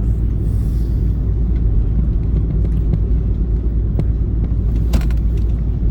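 Steady low rumble of an Airbus A330 heard from inside the passenger cabin while the airliner is on the ground after landing, with a couple of faint clicks near the end.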